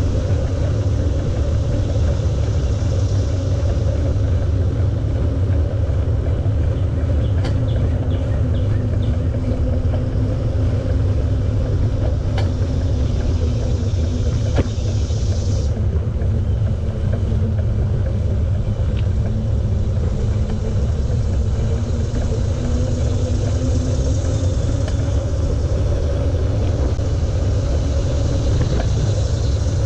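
Steady low rumble of wind and tyre noise on a camera riding on a moving bicycle, with a faint hum running through it. A high hiss stops suddenly about halfway through, and a few light ticks come about a quarter of the way in.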